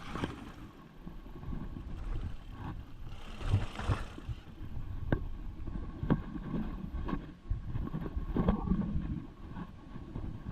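Mountain bike being ridden over rough ground, with wind buffeting the microphone as a steady low rumble, scattered knocks and rattles from the bike, and a brief hiss about three to four seconds in.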